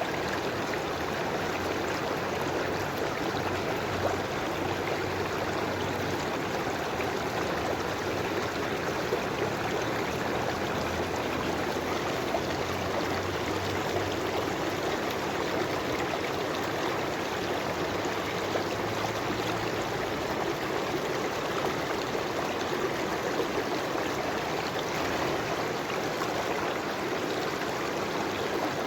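River water flowing steadily over stones, a continuous rushing with small trickles and gurgles.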